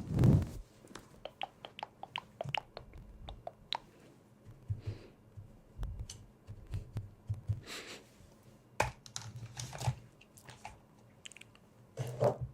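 Close-up ASMR handling sounds: a soft thump, then a quick run of light taps or clicks on a small hard object, each with a short ringing note, followed by scattered soft rustles and clicks.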